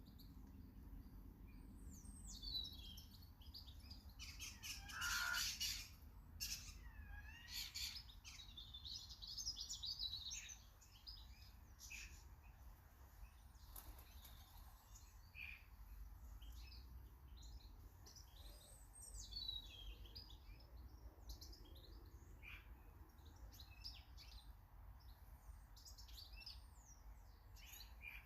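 Small garden birds chirping and calling, many short calls scattered throughout, with a louder burst of calls about five seconds in, over a faint low rumble.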